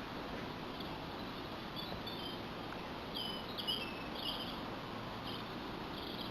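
A small bird giving a series of short, high chirps, bunched together about three to four and a half seconds in, over a steady background hiss.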